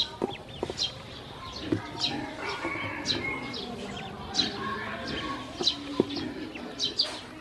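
Many baby ducklings peeping: short, high calls that fall in pitch, several a second.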